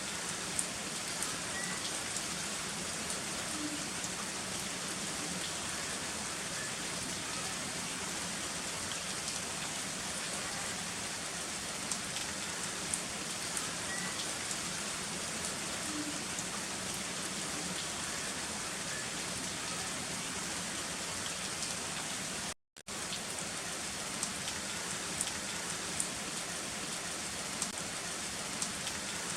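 Steady heavy rain falling, an even hiss with scattered individual drops tapping sharply. It cuts out for a split second about three-quarters of the way in, then resumes unchanged.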